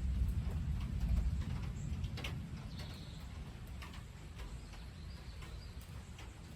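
Low thunder rumbling, loudest in the first second or so and then fading away, with irregular ticks of rain dripping.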